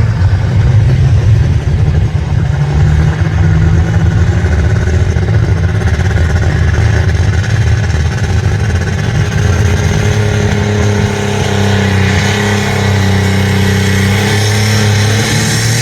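Pulling tractor's engine running loud and steady, its pitch holding with a slight shift about two-thirds of the way in.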